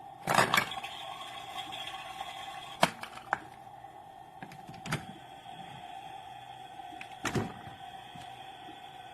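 Hard plastic knocks and thunks of a toy play fridge's door and parts being handled: a cluster right at the start, single sharp knocks about three and five seconds in, and another cluster near the end, over a steady hum.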